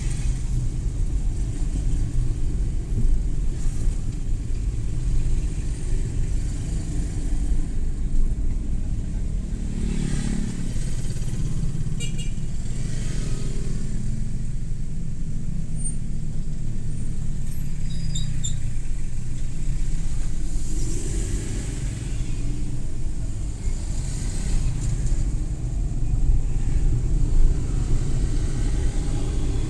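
Suzuki Every Wagon kei van driving along city streets: a steady low engine and road rumble, with now and then the sound of other traffic swelling and fading as it passes.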